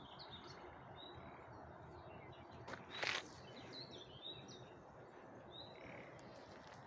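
Faint birdsong, scattered small chirps over a quiet steady background, with a short burst of noise about three seconds in.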